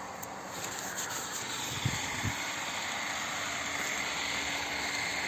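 Steady rushing hiss with a faint hum, growing a little louder about a second in: water pumped from a shallow driven well in sand, running out of the discharge.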